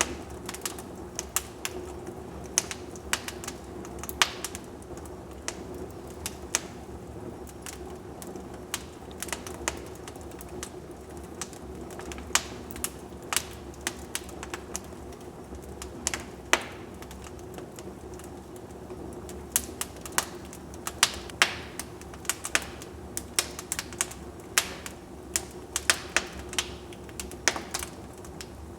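Wood fire crackling in a fireplace: irregular sharp pops and snaps, some in quick clusters, over a steady low rush from the burning logs.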